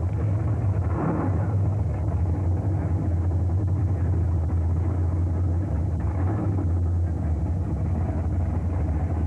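Muscle car's engine running steadily at low speed, deep and even, as the car rolls slowly forward.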